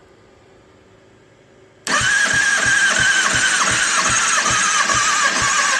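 Electric starter cranking a 2009 Kawasaki ZX-6R four-cylinder engine for a compression test, with the gauge on cylinder one. It starts about two seconds in and stops after about four seconds: a high starter whine that dips with each compression stroke, about four times a second, on a battery that is low on charge.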